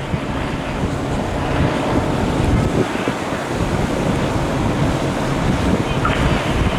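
Steady rush of wind buffeting the microphone, mixed with the rumble of road traffic.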